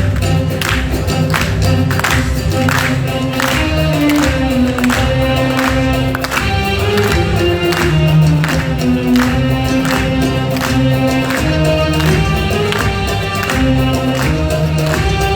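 Live music: a group of voices singing over instruments and a steady percussion beat.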